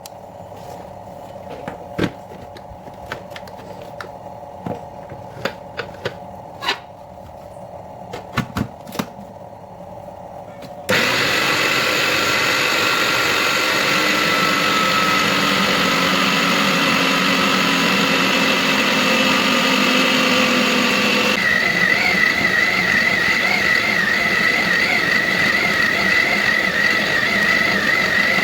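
Light clinks and knocks of kitchen utensils over a faint hum, then about eleven seconds in an electric kitchen blender switches on and runs steadily with a loud whine. The whine changes pitch about two-thirds of the way through.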